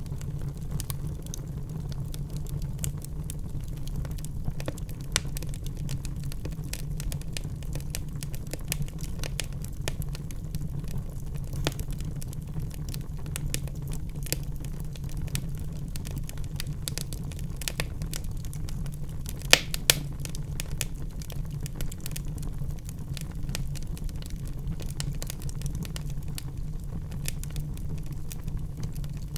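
Wood fire crackling in a fireplace: frequent small snaps over a steady low rumble, with two louder pops in quick succession about two-thirds of the way through.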